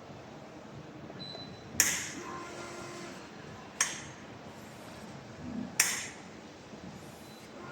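Three sharp clinks about two seconds apart, each ringing briefly: hard metal or ceramic parts being knocked or set down while an espresso machine is readied.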